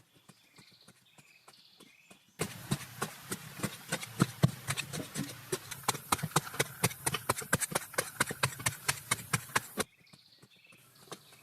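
A rapid series of sharp knocks, several a second, over a hiss; it starts abruptly about two seconds in and cuts off near the end, with faint scattered ticks before and after.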